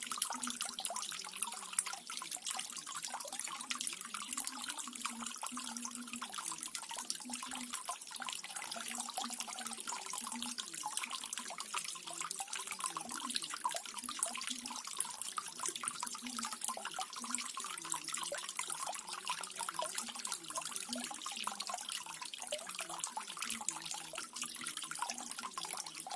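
Small garden waterfall: water splashing and trickling steadily into a pool, with a low burble under it.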